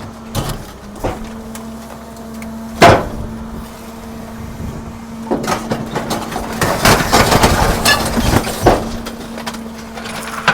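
Garbage truck compactor crushing household trash: a sharp crack about three seconds in, then several seconds of dense crunching, cracking and breaking, over a steady hum.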